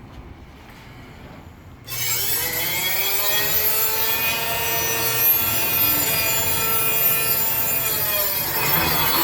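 Fabric end cutter running a cut: about two seconds in, its motor and cutting blade start suddenly with a rough rasping hiss. A whine rises, holds steady and drops away near the end.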